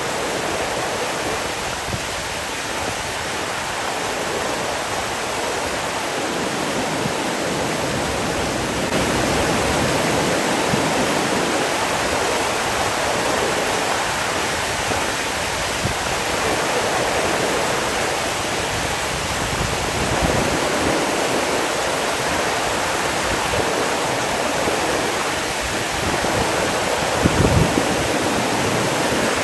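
Rushing water, a steady full hiss like a waterfall or fast stream, swelling slightly about a third of the way in. Near the end there is a brief low thump.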